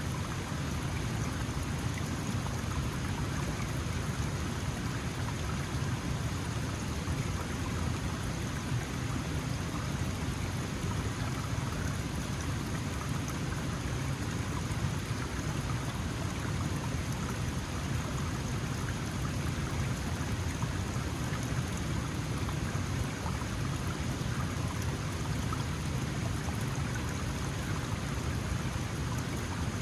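Small mountain stream flowing: a steady, even rush of water over stones.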